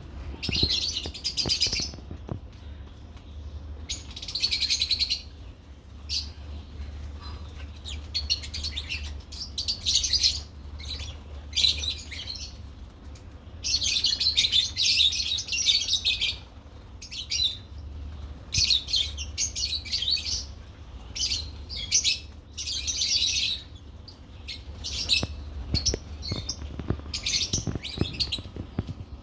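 Lovebirds chattering in repeated bursts of shrill, high-pitched chirps, over a low steady hum.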